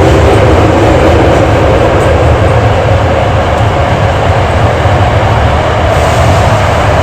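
Hankyu 8300-series commuter train running in a subway tunnel, heard from inside the car: a steady, loud rumble of wheels on rail and running gear, with the whine of its late-type Toyo Denki GTO-thyristor VVVF inverter and traction motors, the whine a little stronger near the end.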